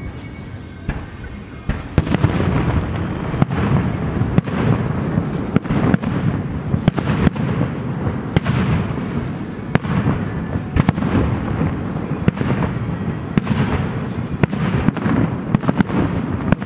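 Fireworks display going off in quick succession: many sharp bangs and crackles over a continuous low rumble, growing louder about two seconds in.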